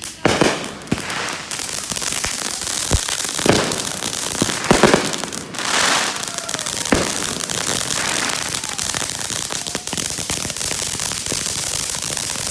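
Consumer firework fountain burning with dense, steady crackling and a few louder pops in the first half.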